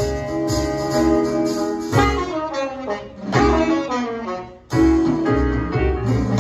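Jazz recording: an ensemble with saxophone and guitar over a steady low beat, with a brief dip shortly before the last third.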